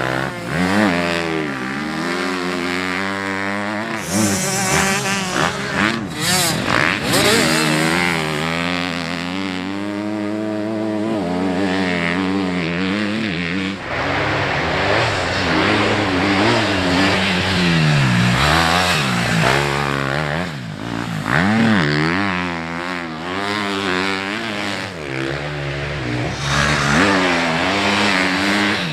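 Motocross bikes racing, engines revving up and down over and over as the riders open and close the throttle and shift gears, with more than one bike heard at times.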